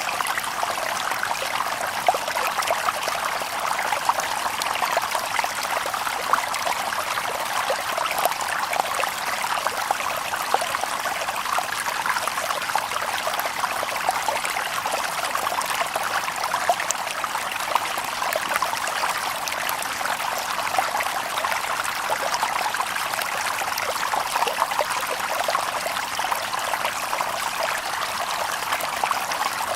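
Shallow stream babbling and trickling over stones in a steady flow, with many small splashes and little deep rumble.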